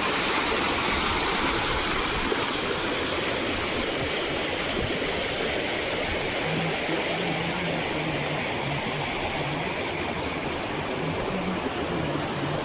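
Fast water rushing through a dam: a steady, unbroken rush of heavy flowing water.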